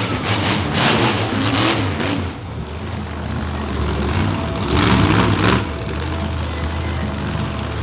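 Monster truck engine revving in repeated throttle bursts, with the loudest surge about five seconds in.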